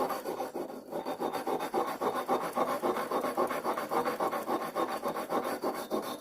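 A small wire brush for cleaning copper pipe scrubbed by hand in rapid back-and-forth strokes against the metal head of a tack hammer, scouring off old grime while it is being cleaned up.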